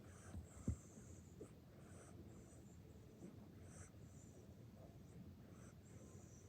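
Dog making faint, odd breathing noises as it falls asleep after a walk: soft, irregular breaths, with one small knock under a second in.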